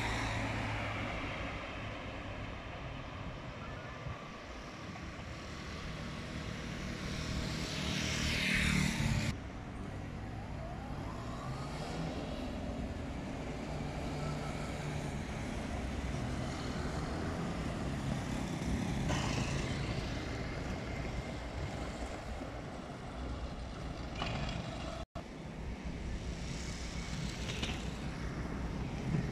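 A motor vehicle engine running steadily over street noise. The sound changes abruptly about a third of the way in and again later, with a brief dropout near the end.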